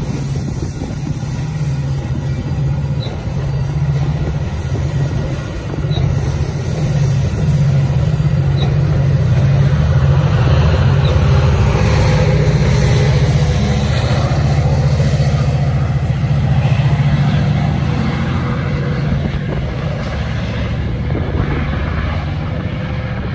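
Metra bilevel diesel commuter train moving slowly along the track, its diesel locomotive running with a steady low drone. Wheel and rail noise swells about halfway through and then eases as the train draws away.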